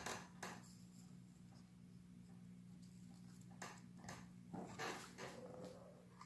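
Near silence: room tone with a steady faint low hum and a few faint clicks.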